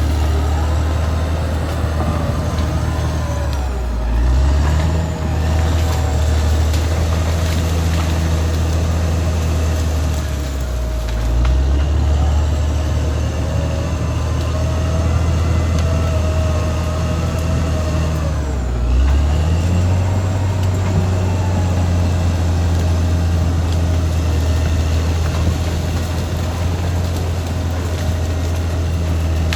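Caterpillar D6R XL bulldozer's diesel engine running under working load. Its note dips and picks back up about 4, 11 and 19 seconds in.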